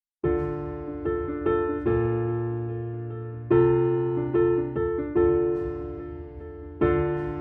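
Soft background piano music begins about a quarter second in: slow sustained chords, each struck and left to fade.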